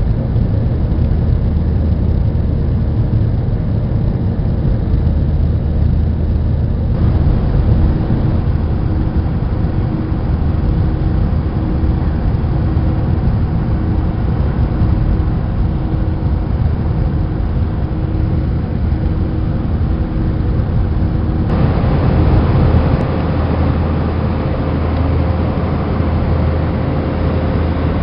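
Airbus A320 jet engine and airflow noise heard from inside the cabin: a loud, steady rumble with a faint steady hum. The noise gets louder in two steps, about seven seconds in and again about twenty-one seconds in.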